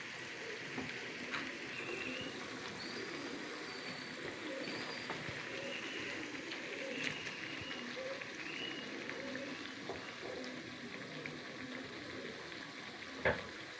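Potato slices frying in hot oil in a wok, a steady sizzle as they are fried until crisp. A single sharp knock near the end.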